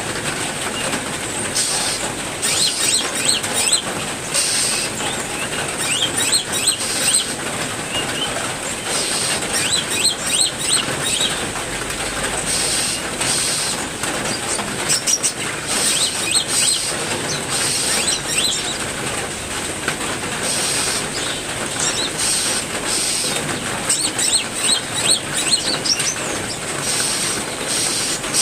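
Steady heavy rain with many small caged songbirds chirping and singing over it in short, high calls, along with a repeated very high-pitched note coming every second or so.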